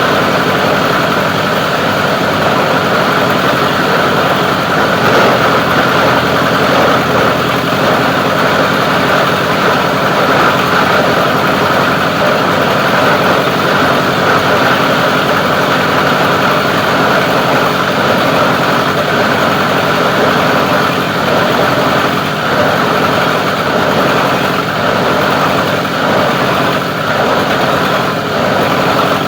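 Plastic recycling grinder running steadily, a loud continuous machine noise with an engine-like drone.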